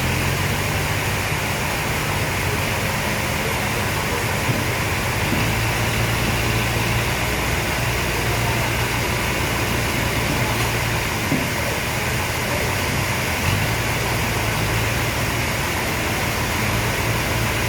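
Sawmill machinery running steadily: a constant low engine-like hum under an even hiss, with no cut or change in load.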